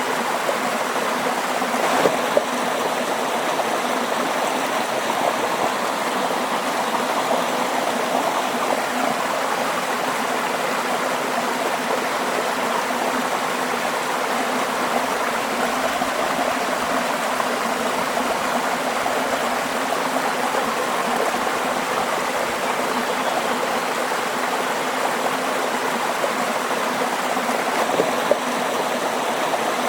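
A stream of water running and babbling steadily, with a few faint ticks about two seconds in and near the end.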